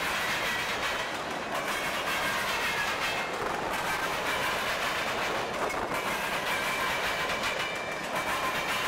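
A train rolling past steadily, its cars' wheels clattering on the rails, with faint high steady tones from the wheels.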